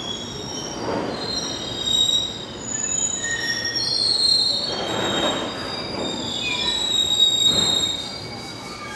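Train wheels squealing on the rails as a train moves slowly through the station: many short, high squealing tones come and go over a rumbling noise that swells several times.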